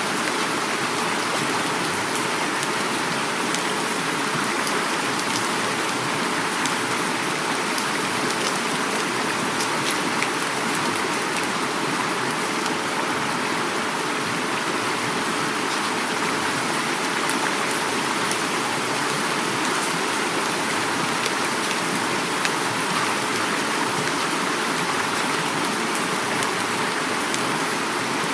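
Heavy rain falling steadily, with the rush of flowing river water mixed in, a dense even hiss with scattered drop ticks.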